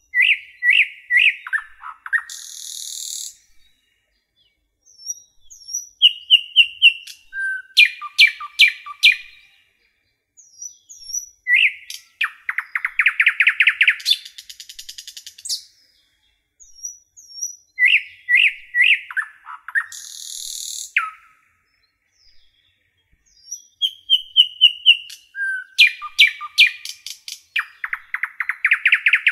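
Birdsong: phrases of quick high chirps, fast trills and a buzzy rasp, repeating about every six seconds with silence between them.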